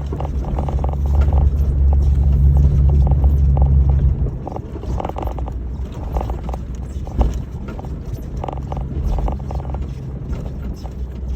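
1996 Jeep Grand Cherokee ZJ's 5.2-litre V8 running as it drives a dirt trail, with frequent knocks and rattles. The engine drone eases about four seconds in and picks up again later.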